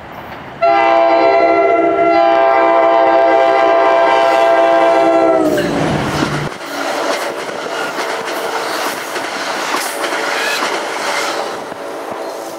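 NJ Transit passenger train blowing its multi-note air horn for about five seconds as it comes into the station. The horn's pitch drops as the train passes, and then the cars rush by, the wheels rumbling and clicking over the rails.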